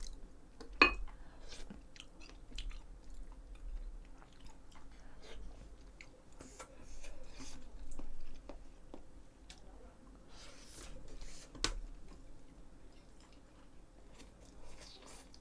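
A person chewing and eating close to the microphone, with soft mouth sounds and a few sharper clicks, one about a second in and another about three quarters of the way through.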